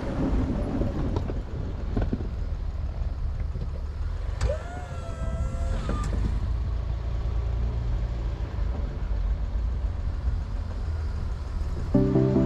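Snow plow truck's engine running with a steady low rumble. About four and a half seconds in, a brief wavering squeal lasts about a second and a half.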